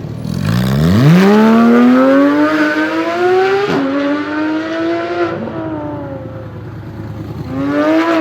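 Porsche 991 GT3's flat-six engine through an iPE Innotech titanium exhaust, accelerating hard with its pitch climbing. A quick upshift about four seconds in, a second climb, then the revs fall away, and a short rising burst of revs near the end.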